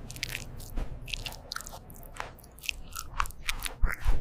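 A cat chewing and biting food close to the microphone: a run of short, irregular chews and bites.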